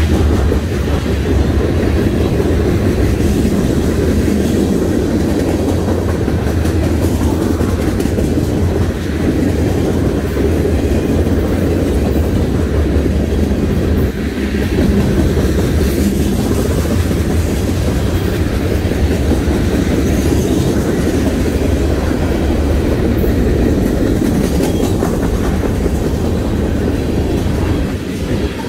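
Freight train of covered hoppers and boxcars rolling past at close range: a steady, loud, low rumble of steel wheels on the rails.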